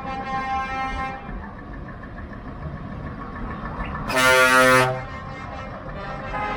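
Truck air horns: a held horn chord in the first second or so, then one loud blast of just under a second about four seconds in.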